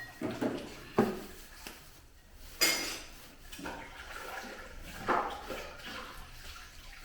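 Cookware handling with water: a few sharp knocks, a bright ringing clink of a pot or utensil about two and a half seconds in, then the sound of water or liquid being moved about.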